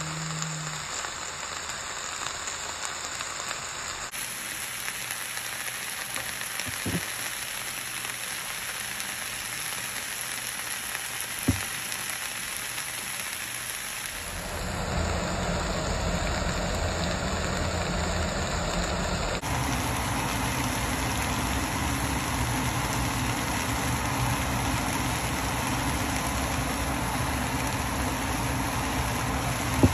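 Mixed vegetables sizzling steadily as they stir-fry in a skillet, with two brief knocks partway through. The sizzle gets louder about halfway.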